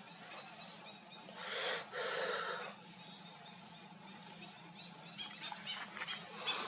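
Birds chirping with many short, high calls, over a steady low hum. About a second and a half in comes a loud rushing noise lasting about a second.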